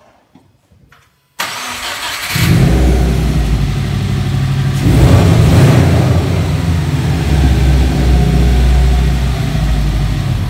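A Subaru WRX's just-reassembled EJ25 flat-four engine being started: a short burst of cranking, then the engine catches at about two seconds and runs. It picks up in a rev about five seconds in and keeps running steadily.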